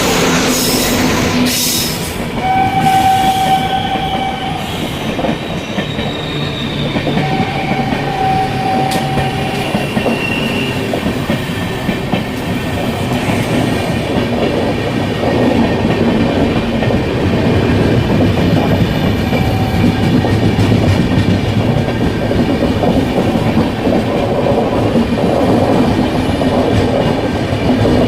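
Mahabodhi Express passing through a station at speed without stopping: two long horn blasts about three and eight seconds in, then the steady rumble and clickety-clack of the coaches over the rails.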